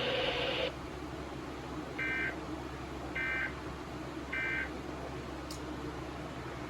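Emergency Alert System end-of-message data bursts: three short, identical warbling digital tone bursts about a second apart, marking the end of the relayed severe thunderstorm warning. Before the bursts, a receiver hiss cuts off under a second in.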